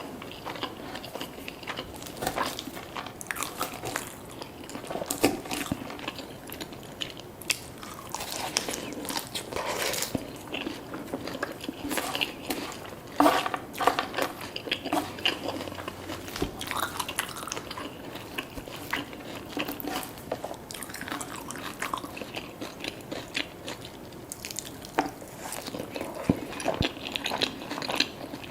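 Close-miked eating: a person biting into and chewing crunchy food, with irregular crackling crunches throughout and the loudest bites about halfway through.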